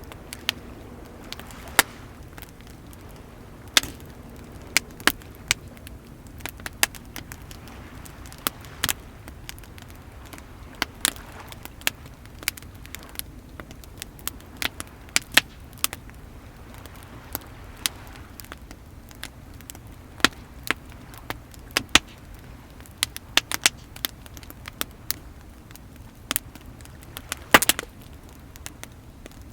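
Wood bonfire crackling with sharp, irregular pops, over a steady low rush of waves. One pop a couple of seconds before the end is the loudest.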